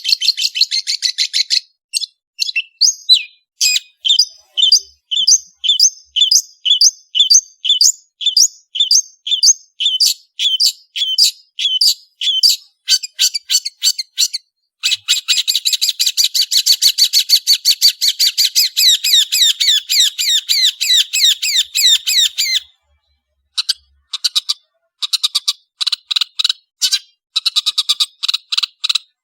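Long-tailed shrike singing: a string of sharp, high repeated notes a few per second, breaking about halfway into a fast continuous chatter. After a short pause, more bursts of notes follow.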